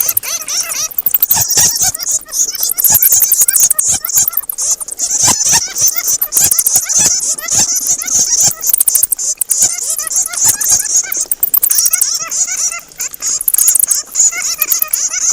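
Bats squeaking and chattering: a dense run of rapid high clicks and short chirping squeaks that continues without a break.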